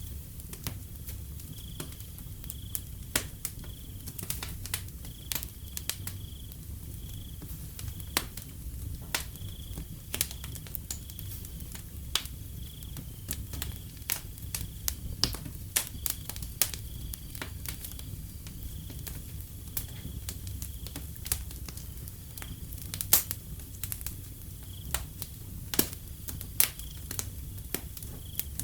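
Wood fire crackling, with irregular sharp pops and snaps over a low, steady rumble. A faint, evenly repeating high chirp of crickets runs underneath.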